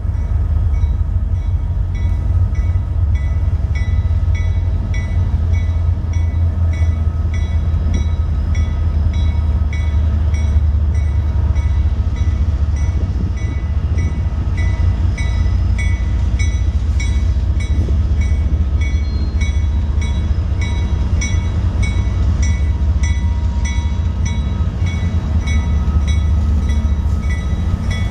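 Freight train approaching with a bell ringing steadily, about twice a second, over a constant low rumble.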